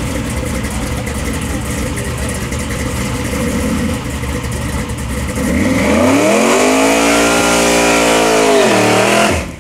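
A drag-race Chevy II Nova's engine idles with a lumpy, uneven beat. About halfway through it revs up and is held at high revs for about three seconds, then dips and cuts off suddenly near the end.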